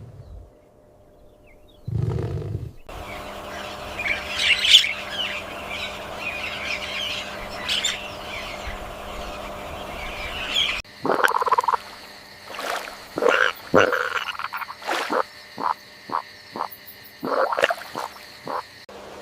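Animal calls: high chirping over a steady background hiss, then a run of about a dozen short, sharp calls, with a brief low sound near the start.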